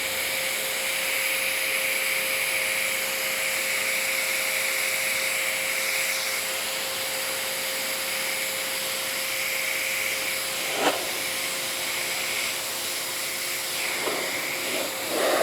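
Pressure washer running, its steady motor whine under the hiss of the water spray as the car is pre-rinsed. A single sharp click comes about eleven seconds in.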